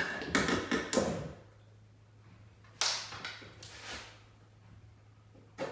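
Clatters, knocks and scrapes from wooden window trim being handled and fitted: a quick run of them in the first second and a half, then single sharp ones about three seconds in and near the end. A steady low hum lies underneath.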